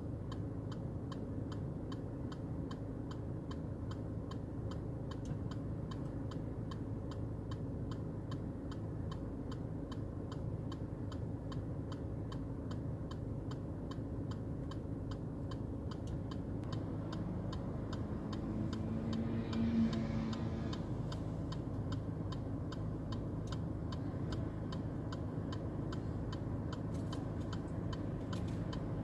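Rapid, even mechanical ticking that runs on steadily over a low background rumble, with a brief low hum that swells and fades about two-thirds of the way through.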